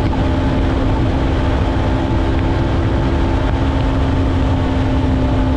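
Yamaha MT-03 motorcycle cruising at a steady speed, its engine holding one steady pitch under a heavy rush of wind noise on the bike-mounted GoPro's microphone.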